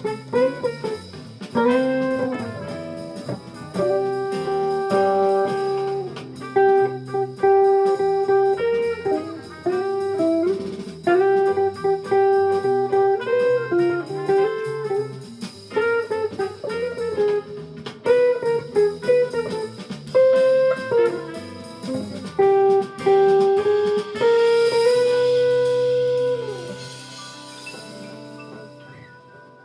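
Jazz guitar playing a melody line over chords, ending on a long held note that fades out near the end.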